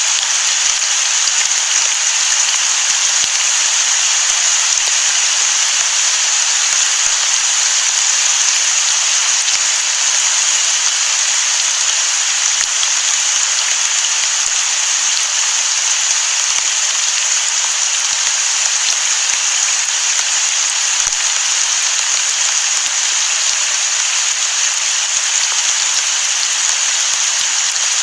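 Steady rain falling, an even hiss that holds without change; no thunder is heard.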